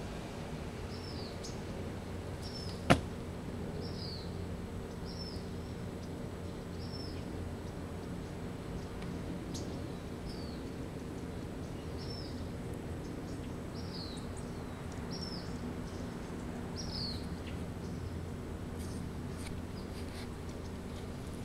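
A bird repeating a short, high, down-slurred chirp every one to two seconds, over a steady low hum. A single sharp click about three seconds in is the loudest sound, with a few fainter clicks near the end.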